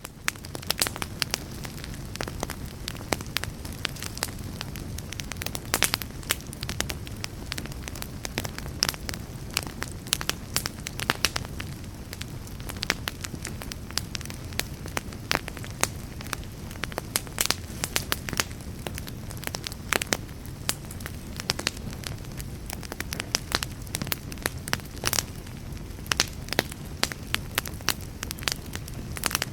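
Fire burning with a steady low rumble, dotted with frequent sharp crackles and pops, several a second.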